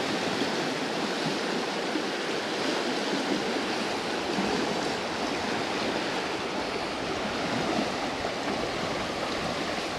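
Fast, high mountain creek rushing steadily past, swollen with floodwater.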